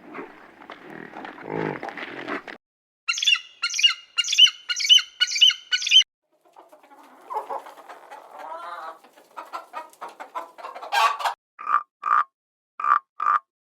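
A string of separate bird and farm-animal calls cut one after another, with chicken clucking and squawks among them: first a rough, noisy stretch, then a run of six high, evenly spaced calls, and near the end short calls in pairs.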